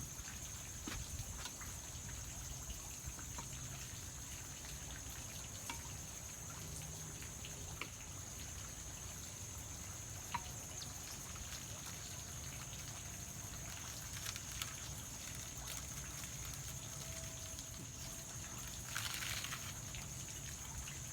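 Outdoor ambience of trickling water, with a steady high-pitched drone and a few small clicks.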